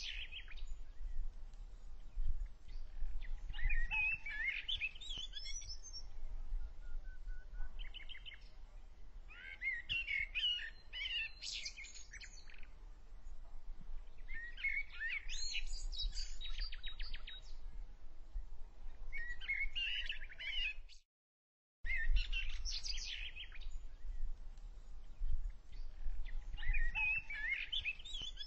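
Small birds chirping and singing in short warbling phrases every few seconds, over a steady low rumble. The sound drops out for about a second roughly two-thirds of the way through.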